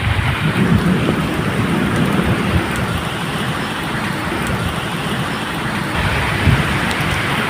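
Steady medium rain falling, with low thunder rumbling underneath that swells about a second in and again near the end.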